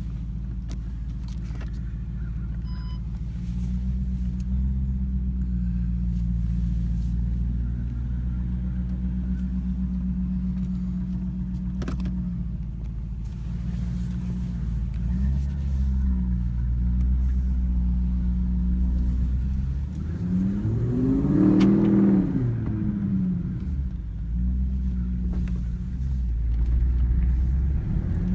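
Audi S7's twin-turbo 4.0 V8 through an Akrapovic exhaust, idling steadily after a cold start, with one quick rev about three quarters of the way in, rising and falling back to idle, and another rev beginning at the very end.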